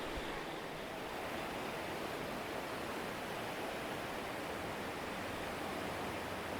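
Swollen river water rushing steadily past after heavy rain: an even, unbroken rush of water noise.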